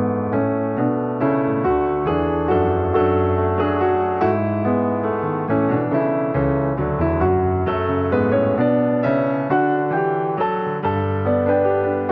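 Background piano music: a gentle melody over chords, with notes struck at a steady pace.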